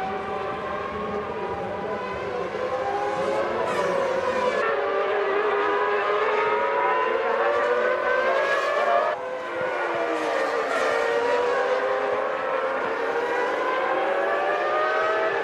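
Formula One car engines at high revs, several pitches rising and falling and overlapping as the cars accelerate and shift through the gears, with a brief drop about nine seconds in.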